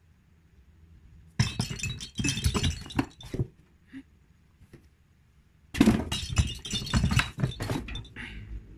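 Hard objects clattering and clinking in two bursts of rapid knocks, the first about a second and a half in, the second about six seconds in.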